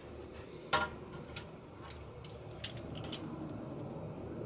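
Scattered light clicks and taps, about seven at irregular intervals and the loudest about three-quarters of a second in, from handling and cleaning the end of a length of quarter-inch copper brake line.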